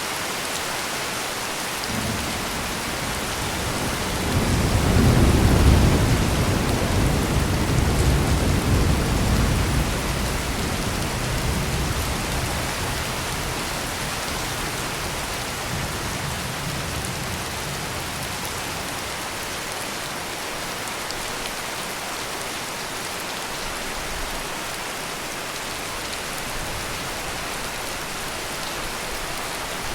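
Heavy rain pouring steadily, with a roll of thunder that builds from about two seconds in, is loudest a few seconds later, and rumbles away over the next several seconds.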